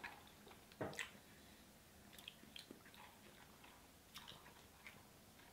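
Faint chewing and mouth sounds of people eating fast food, soft wet clicks scattered throughout, with one sharper click about a second in.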